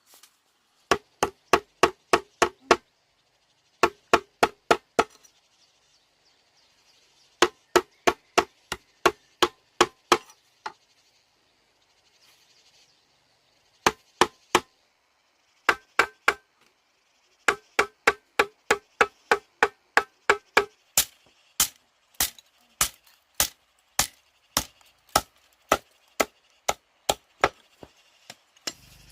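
Quick runs of sharp blows from a hand tool on wood, about four a second with a short ringing knock to each, broken by pauses. Over the last several seconds the blows come slower, about two a second, and sound sharper.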